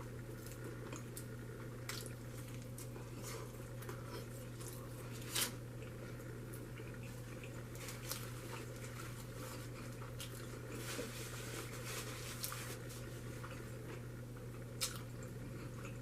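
A person chewing and making wet mouth sounds close to the microphone, with scattered small smacks and clicks and a louder smack about five seconds in and another near the end, over a steady low hum.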